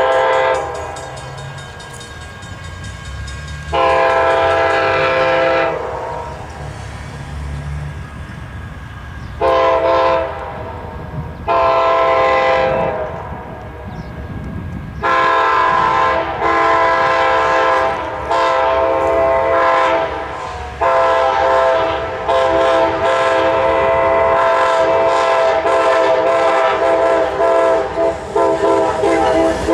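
Amtrak passenger locomotive's air horn sounding a multi-note chord in a series of blasts. There are two long blasts and a short one in the first part. From about halfway through it sounds almost continuously, with brief breaks that grow choppy near the end. A low rumble from the train runs underneath.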